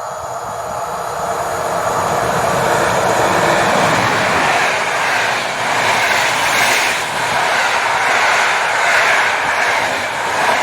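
A train approaching and passing close by. The rumble and rail noise grow louder over the first couple of seconds, then hold steady and loud with a faint regular rise and fall.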